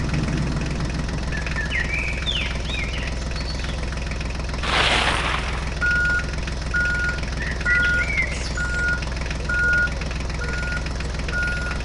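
Tractor engine running steadily, with a short hiss about five seconds in. Then a reversing alarm beeps evenly, about once every three quarters of a second, over the engine; a few short bird-like chirps come through now and then.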